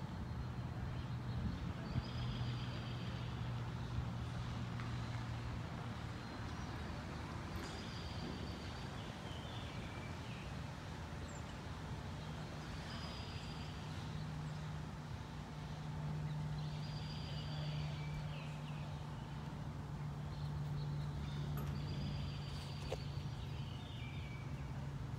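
A steady low hum that steps up slightly in pitch partway through, with a bird repeating a short high song phrase about every five seconds.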